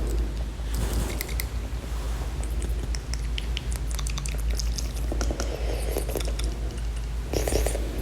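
Fast ASMR mouth sounds: quick tongue clicks and lip smacks coming in irregular clusters, over a steady low hum.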